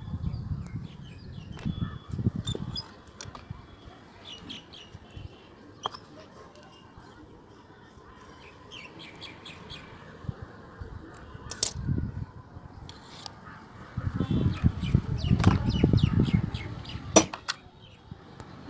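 Small birds chirping in quick runs of short, high notes, with a stretch of louder low muffled noise about three-quarters of the way through.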